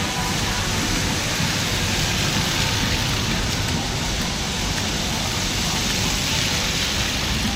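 Steady hiss of wet snow falling on a city street, with a low traffic rumble underneath.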